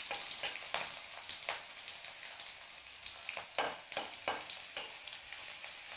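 Garlic, ginger and green chillies sizzling in hot oil in an aluminium kadhai, with a metal spatula scraping and knocking against the pan many times, most strongly in the second half.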